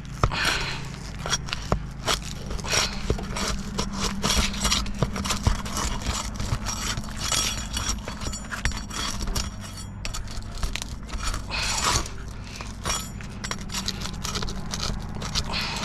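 Scraping, crackling and many small clicks and knocks as roofing tools pry and pull at brittle asphalt shingles, which crack as they are worked loose; the brittleness is why the roof is judged not repairable. A steady low hum runs underneath.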